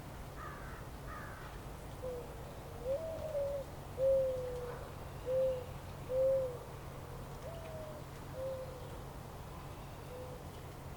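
A bird calling a slow series of about eight short, low notes, a couple of them lifting in pitch, over a steady low background rumble. Two faint high chirps come in the first second or so.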